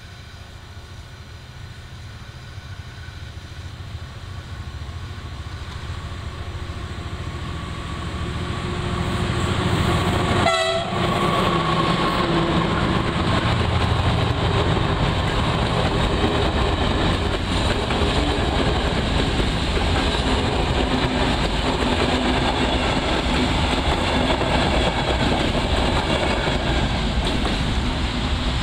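A train approaching on the line, growing steadily louder over about ten seconds, then passing close with a loud, steady rumble of wheels on rails.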